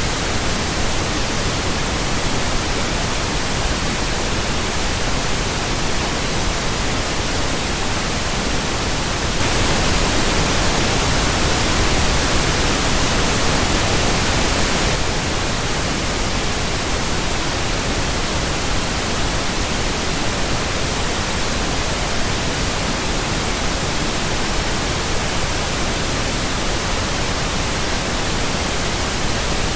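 Synthetic pink noise: a steady, even hiss with no pitch or rhythm. It grows a little louder and brighter for about five seconds in the middle.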